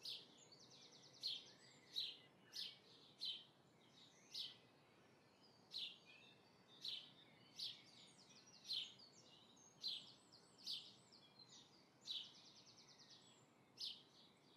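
Birds chirping faintly: short high chirps about once a second, with a few quick trills in between.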